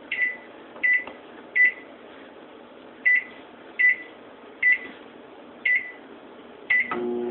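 Microwave oven keypad beeping as its buttons are pressed one after another: about eight short high beeps, each with a click, at uneven intervals. A short low hum comes in near the end.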